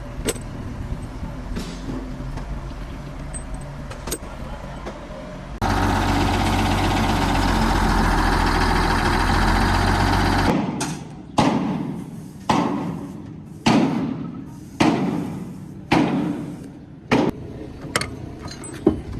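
A steady low machine hum, then about five seconds of loud rushing noise that cuts off suddenly, followed by a run of heavy hammer blows roughly once a second, each with a short ring, as parts of a heavy grader's wheel tandem are worked on.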